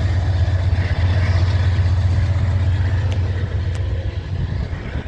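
Diesel pusher locomotive at the rear of a freight train going past, a loud, steady low engine drone with train noise, easing off slightly near the end.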